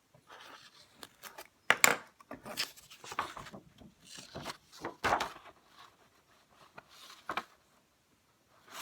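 Pen or marker scratching and rubbing on paper, with irregular knocks and taps from handling the paper and cardboard tube on the table.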